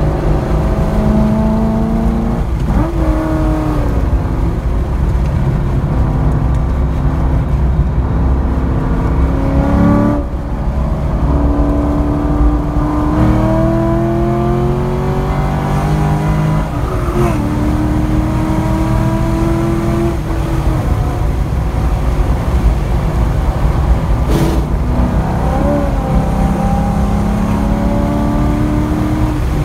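C5 Corvette Z06's LS6 V8 engine under hard track driving, heard from inside the cabin: its note repeatedly climbs in pitch under acceleration and drops back about four times, over steady wind and road rumble.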